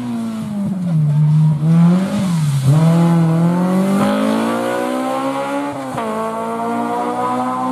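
Rally car engine accelerating hard, its pitch climbing steadily through the gears, with a quick drop at each upshift about two and a half and six seconds in.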